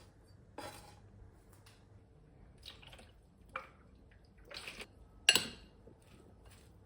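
A few short, soft handling sounds, light scrapes and taps, with one sharper click a little past five seconds in.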